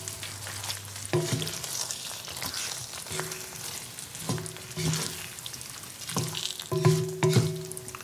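Chicken sizzling in coconut milk and red curry paste in a wok, stirred with a wooden spatula that knocks and scrapes against the pan about seven times, each knock ringing briefly.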